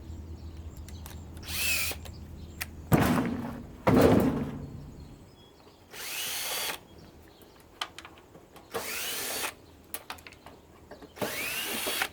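Cordless drill/driver run in four short bursts, its motor whine rising as it spins up each time, backing screws out of an air purifier's housing. Two loud knocks of parts being handled come between the first and second bursts.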